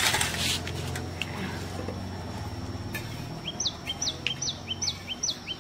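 A small bird calls over and over in short, quick, falling high-pitched notes, about two a second, starting a little over halfway through. Before that a low steady hum fades out, after a brief clatter of steel dishes at the very start.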